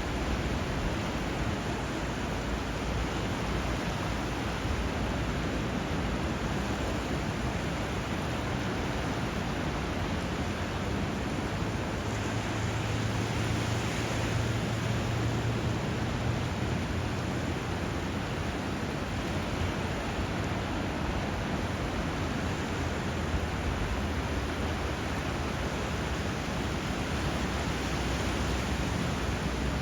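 Steady rush of water where a river flows into the sea, river current and waves blending into an even wash that swells a little about midway.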